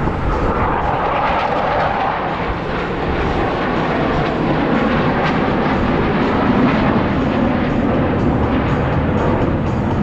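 Loud, continuous jet noise from Blue Angels F/A-18 Super Hornet jets in flight. The sound deepens around the middle.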